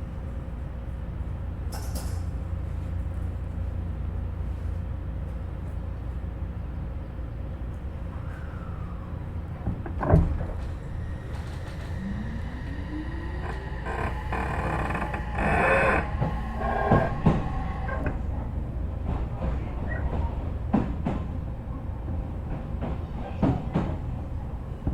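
Onboard running sound of an Odakyu 3000-series electric train, which has a Mitsubishi IGBT VVVF inverter and fully enclosed traction motors. A steady low rumble runs under a sharp knock about ten seconds in. Then comes a rising motor and inverter tone, and in the second half the wheels squeal and knock over the rails.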